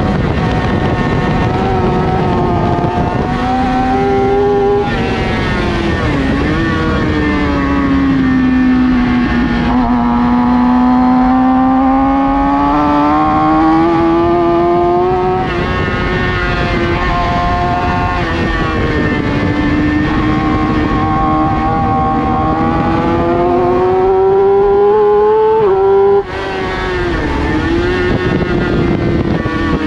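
Racing sportbike engine at high revs, its pitch climbing under acceleration and falling back, broken by gear changes, with a sharp upshift near the end.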